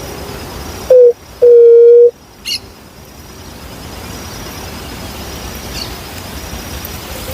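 Juriti dove calling close by: a short low note, then one long, loud, low hoot at a steady pitch. A small bird chirps briefly just after.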